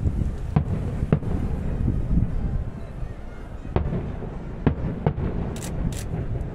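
Aerial fireworks going off at a distance: a string of separate booms over a continuous low rumble, with sharper crackling near the end.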